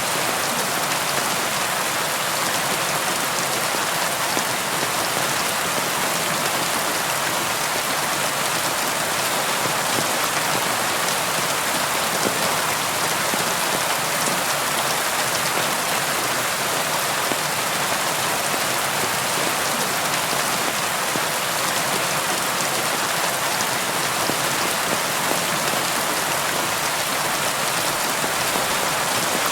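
Steady rain falling on a surface, a constant hiss of many drops with faint scattered individual drop ticks and no thunder.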